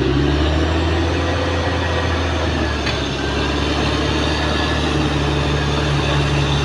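Caterpillar D6R XL bulldozer's diesel engine running with a steady low drone.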